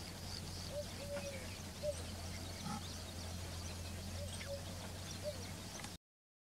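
Outdoor ambience with birds calling: short arched low calls that come irregularly every second or so, with faint high chirps, over a steady low hum. The sound cuts off to silence near the end.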